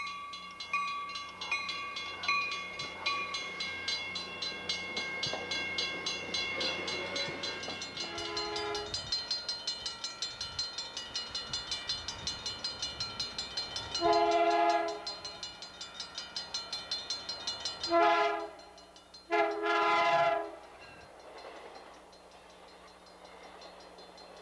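A passenger train's air horn sounds four blasts in a grade-crossing pattern, the last the longest. Behind it a crossing bell rings steadily at about two strokes a second.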